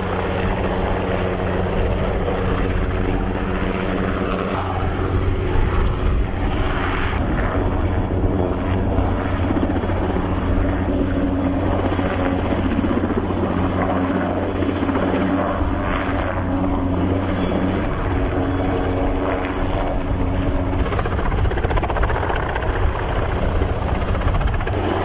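Helicopter running steadily with its rotor and engine loud and continuous, while it is used to lift sections of a tower into place.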